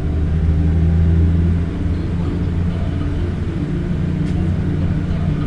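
Bus engine running as the bus drives: a loud, steady low rumble that eases slightly about a second and a half in.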